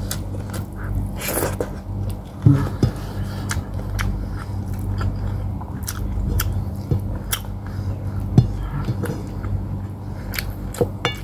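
Close-up chewing and mouth sounds of someone eating, with scattered small clicks and wet squishes as a stewed pork hock is pulled apart by hand. A steady low hum runs underneath.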